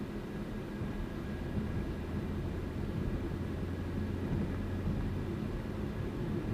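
A car driving at a steady cruising speed: constant engine drone and tyre noise.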